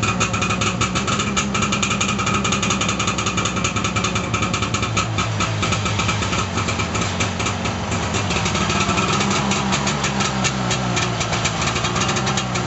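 1989 Arctic Cat Jag 340's fan-cooled two-stroke engine running steadily just after a cold start, on full choke.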